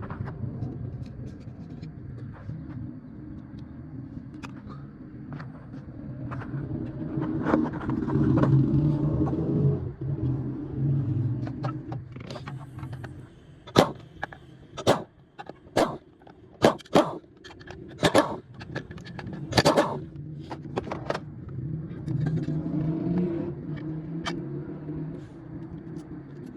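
A steady low engine-like hum that swells about a third of the way in, with a run of sharp knocks or clicks in the middle.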